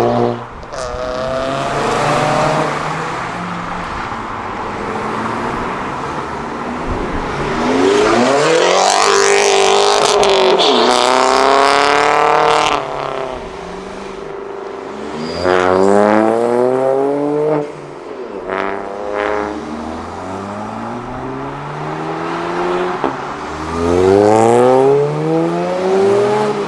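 Several performance cars accelerating hard past one after another, their engines revving up in rising sweeps through the gears. The loudest pass comes about a third of the way in, with others near the middle and near the end.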